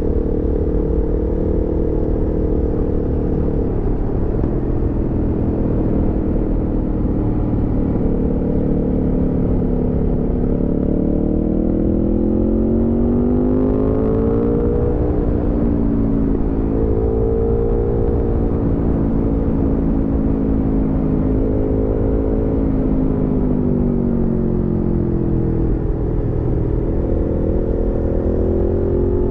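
Aprilia Tuono V4 motorcycle's V4 engine running under way, heard from the rider's position. The engine pitch climbs in the middle, drops back, then falls again and rises once more near the end as the throttle is opened and closed.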